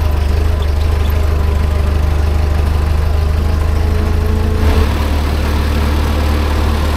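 Vintage open-top car's engine running steadily while driving, heard on board as a loud, steady low drone.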